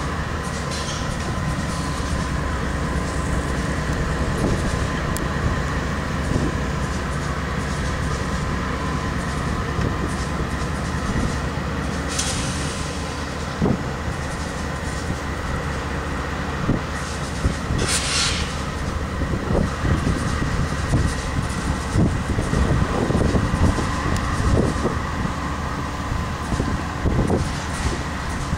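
CSX GE AC4400CW diesel-electric locomotives running as they slowly pull a string of empty coal hoppers past, a steady engine drone under the wheels clicking and knocking over the rail joints, the knocks coming thicker in the second half. A brief high hiss sounds twice around the middle.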